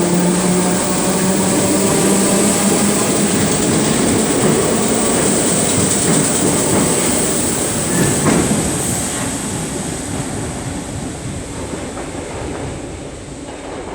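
Merseyrail Class 508 electric train pulling out of the platform: a motor whine with the rumble and rattle of the carriages, fading over the last few seconds as it leaves.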